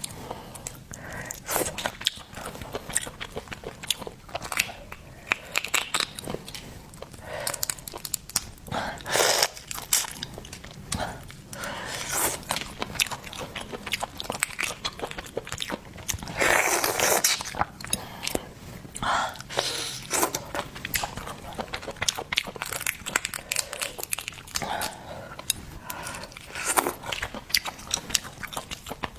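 Close-miked eating of seafood: biting and chewing in a dense run of short crunches and clicks, with a few longer crunching stretches.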